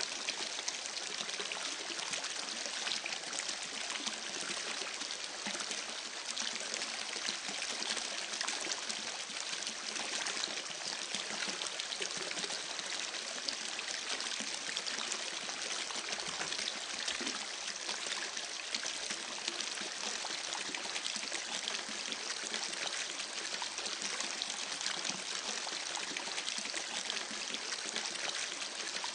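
Running water, steady and unbroken, with a fine splashing texture.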